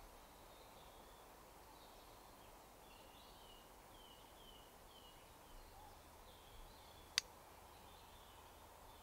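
Faint woodland ambience with a small bird singing a short series of quick, high, descending notes. About seven seconds in comes a single sharp click.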